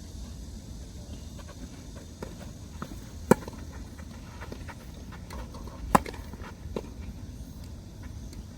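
Tennis rally: two sharp racket strikes on the ball about two and a half seconds apart, with several fainter knocks of the ball between and around them.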